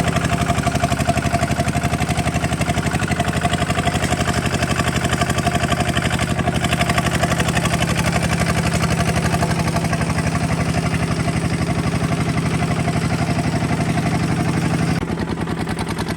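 Kubota RT 140 DI single-cylinder diesel engine running steadily with a fast, even chugging beat. About fifteen seconds in, the sound drops and turns duller.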